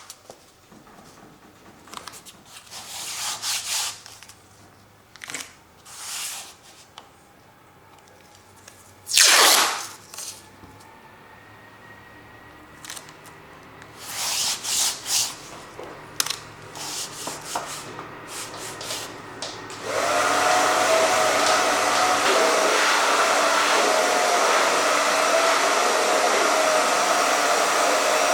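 Acrylic paint being worked onto canvas: a series of short scraping swishes, one much louder about nine seconds in. About twenty seconds in, a hair dryer switches on and runs steadily, used to dry the acrylic paint.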